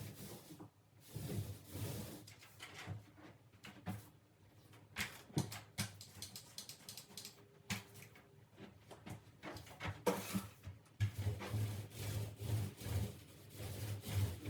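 Paint roller rubbing over a wall in uneven strokes, with a few light knocks.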